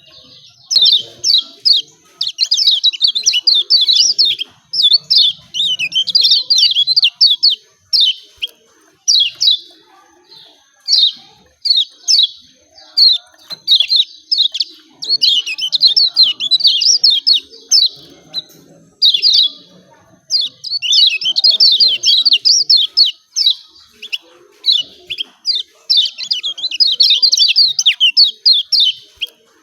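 Kecial kuning, a white-eye, giving its rapid 'ciak ciak' chirping calls, loud and near-continuous in dense bursts of one to three seconds separated by brief pauses.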